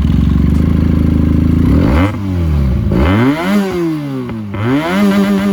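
Benelli TNT 300's twin-cylinder engine revving loudly through an aftermarket SC-Project exhaust. It holds steady revs for about two seconds, then the revs drop and climb twice and hold high again near the end.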